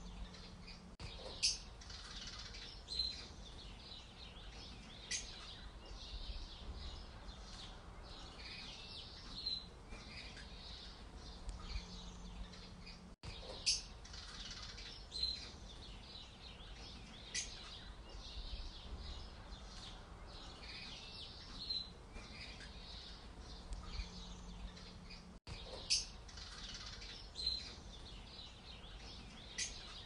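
House sparrows chirping: short, sharp chirps every second or two over a faint background hiss, with the same run of chirps repeating about every twelve seconds.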